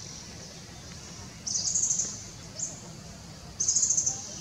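A bird's high, rapid trilling call, heard twice with a short chirp between.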